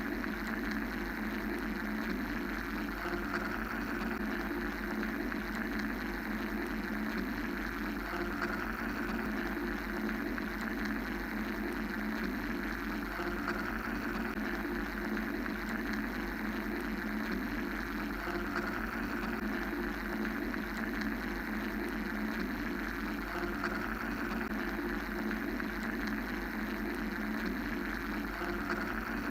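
Steady mechanical white-noise drone: an unchanging low hum under an even hiss.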